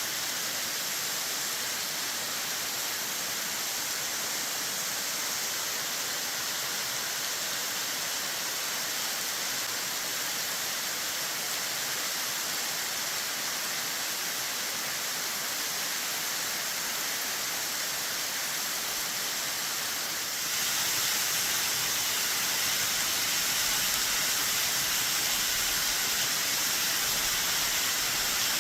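Waterfall cascading off a cliff at high spring run-off, a steady rushing of falling water. About two-thirds of the way in it turns suddenly louder and brighter.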